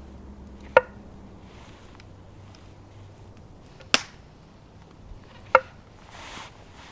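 Three sharp chopping strikes, spaced a few seconds apart; the first and last ring briefly after the hit.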